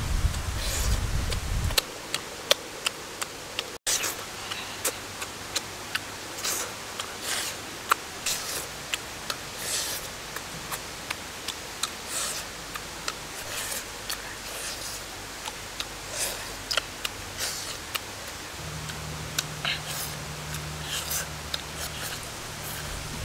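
Close-up chewing and lip-smacking while eating grilled pig intestine by hand: many short, irregular crisp clicks and smacks over a steady hiss.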